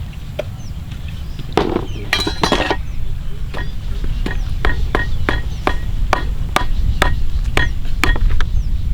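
Knife chopping on a wooden board in a steady rhythm of about two strokes a second, each stroke with a short clink. A brief scraping rustle comes near two seconds in, over a steady low rumble.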